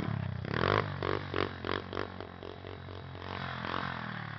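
Small 90cc pit bike engine running with its throttle blipped in quick pulses, about three a second, then easing off and fading. The owner calls the engine blown.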